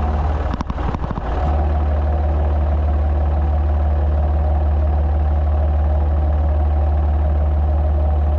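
Ford 3000 tractor's three-cylinder engine running steadily as it pulls a one-row planter, with a few knocks and clatter in the first second and a half.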